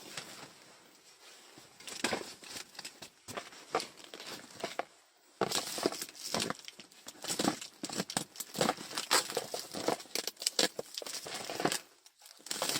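Parcel packaging being handled and unwrapped: plastic and paper crinkling and rustling in dense irregular crackles, with some tearing. Quieter at first, with a short pause about five seconds in.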